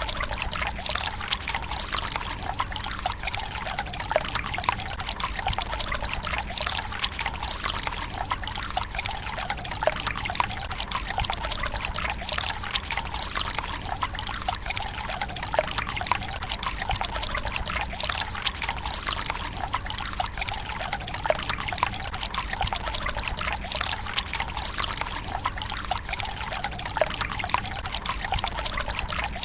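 Water pouring steadily into a Japanese tsukubai stone basin, a continuous trickle with constant small splashes and drips.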